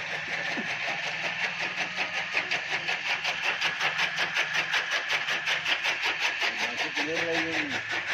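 New Holland tractor engine running steadily, with an even pulsing of about four to five beats a second.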